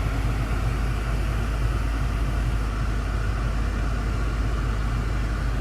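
Steady low rumble of a BMW M5 F10's twin-turbo 4.4-litre V8 idling, heard from inside the cabin.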